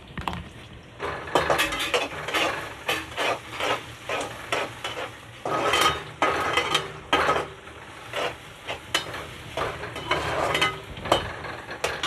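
A spoon scraping and stirring food around a hot kadhai in repeated, irregular strokes, with the food sizzling as it fries.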